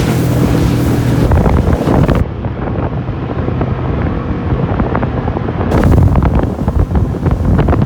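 Heavy wind buffeting the microphone aboard a speeding motorboat, over the boat's engine and water rushing past the hull, in gusts and thumps.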